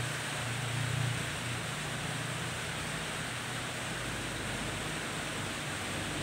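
Steady hiss of heavy rain, with a low hum underneath.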